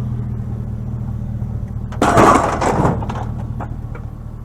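Car engine and road noise heard from inside the cabin, a steady low hum. About two seconds in, a sudden loud clattering rattle lasts roughly a second.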